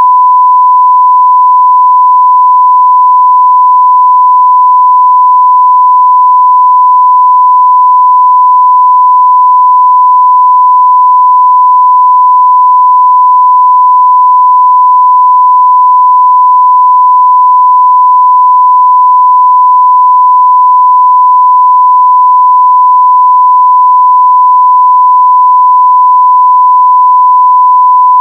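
A 1 kHz sine-wave test tone at full level, one pure steady pitch held without any change.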